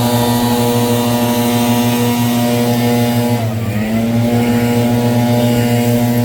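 Gas-powered leaf blower engine running steadily at high throttle. About three and a half seconds in, the revs sag briefly and then pick back up.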